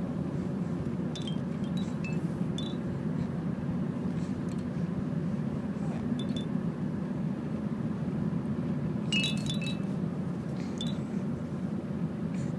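Light chime-like tinkles at scattered moments, a few at a time, over a steady low hum.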